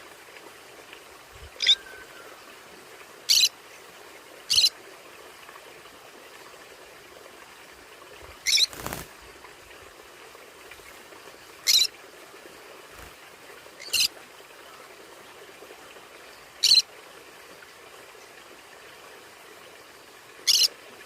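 Conure parrots giving short, sharp, high-pitched calls, eight in all at uneven intervals of one to four seconds, over a steady background hiss.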